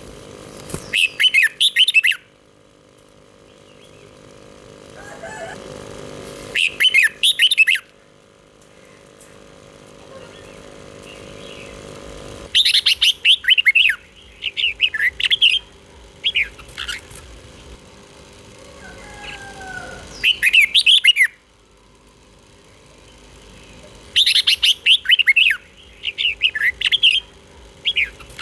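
Red-whiskered bulbul singing in short, bright, rapid warbling phrases, about six bursts separated by pauses of a few seconds. A faint steady hum lies under the song.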